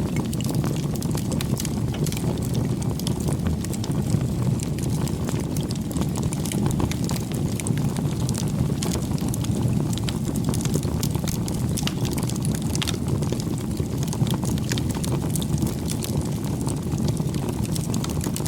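Campfire burning: a steady low rush of flames with many small, irregular crackles and pops from the burning wood.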